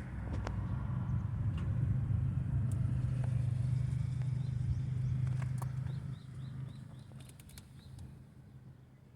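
Suzuki GT380's two-stroke three-cylinder engine running at a steady pitch, then fading away from about six seconds in.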